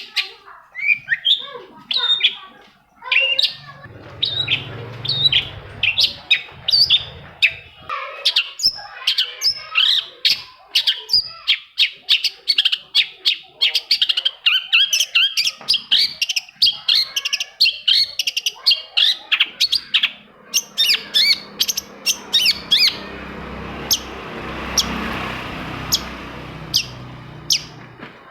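Long-tailed shrike (cendet) singing a fast, continuous run of sharp chirps and chattering notes, several each second. For the last few seconds the notes thin out while a rushing noise swells and fades beneath them.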